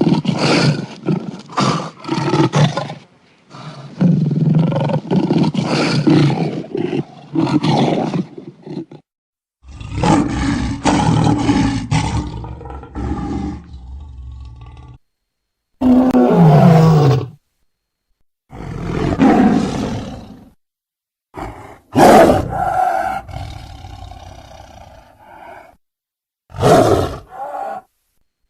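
Tigers roaring: about seven separate loud roars, each starting and stopping abruptly with a short silence between, like clips spliced one after another. One roar about halfway through falls in pitch.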